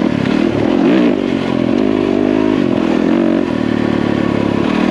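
Yamaha WR450F dirt bike's single-cylinder four-stroke engine on the move, its note rising and falling over the first few seconds, then holding steady.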